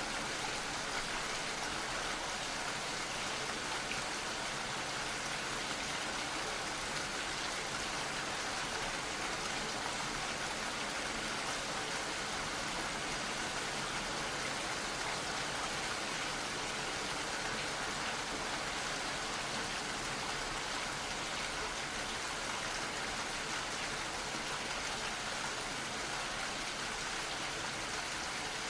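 Gentle rain falling steadily: an even hiss of raindrops with no breaks or swells.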